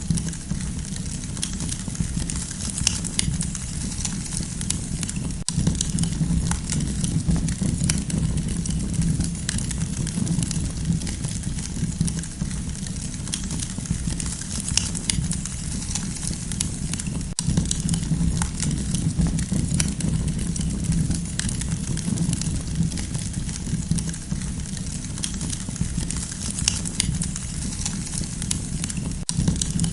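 Wood campfire crackling, with frequent small sharp pops and snaps over a steady low rumble.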